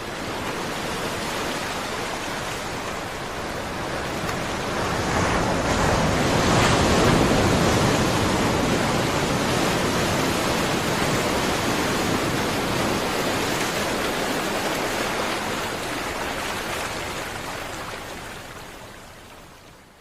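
Steady rush of rough sea and wind, swelling loudest about six to eight seconds in and fading near the end.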